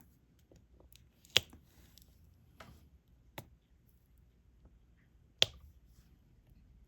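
Sharp clicks of a diamond-painting pen setting resin drills onto the canvas: two loud clicks about four seconds apart with a fainter one between, and small soft ticks.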